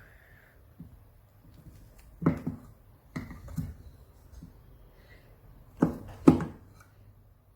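A few scattered knocks and taps of things being handled, the loudest a single knock about two seconds in and two close together near the end.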